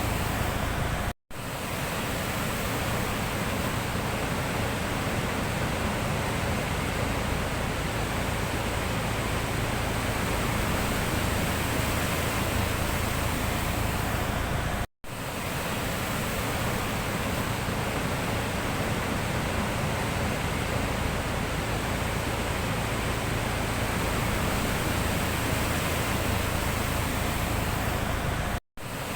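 Sea surf as a steady, even rushing wash with no separate wave swells standing out. It cuts out briefly three times at even intervals of about 14 seconds, fading back in each time.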